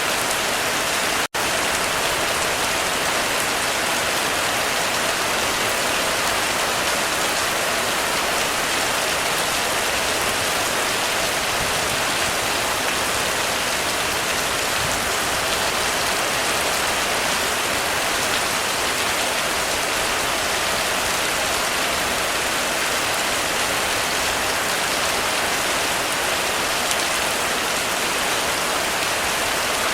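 Heavy rain falling steadily on a roof, a dense even patter. The sound cuts out for an instant about a second in.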